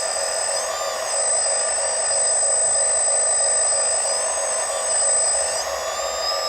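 Motors of radio-controlled model excavators, dump trucks and a loader whining steadily as they work, with a few higher whines gliding up and back down in pitch every second or two as the machines speed up and slow.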